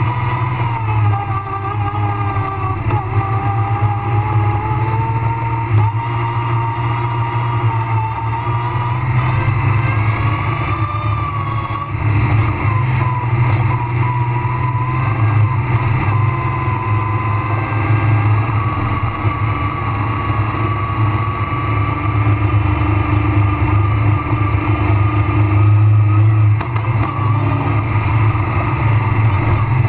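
Rally car engine running under load, heard from inside the cabin, a steady low drone whose pitch wavers slowly as the revs change.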